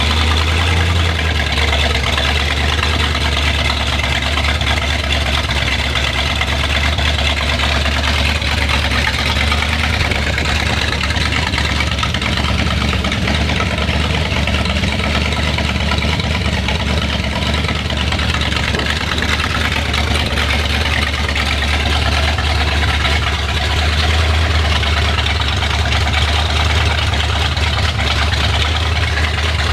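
Freshly rebuilt Chrysler 318 V8, with a mild cam and stock exhaust manifolds feeding short open pipes, idling steadily just after start-up.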